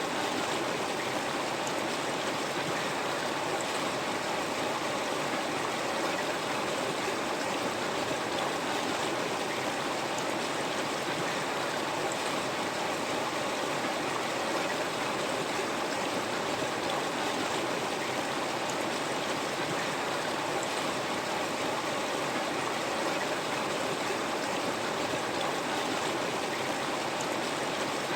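River water flowing over rocks: a steady rushing and burbling that does not change.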